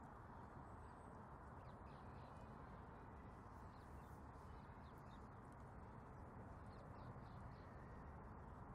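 Near silence: a faint steady outdoor hiss, with a few faint, short, high bird chirps in the middle and again near the end.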